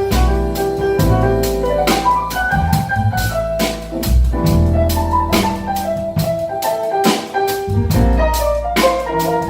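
Jazz piano trio playing: piano lines over low bass notes and a drum kit with frequent cymbal and drum strokes.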